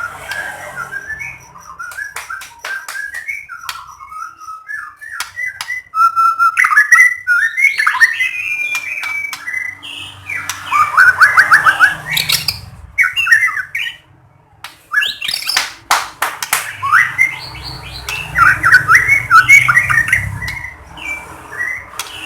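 White-rumped shama (murai batu) singing a loud, varied song of quick whistled phrases, rapid trills and sharp clicking notes, with a short pause about two-thirds of the way through.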